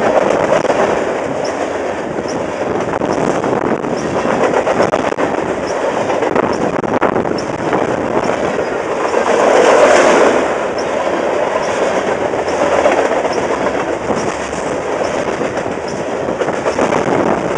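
Freight train cars rolling past at speed: a steady loud rumble of wheels on rail with faint regular clicks, swelling about ten seconds in.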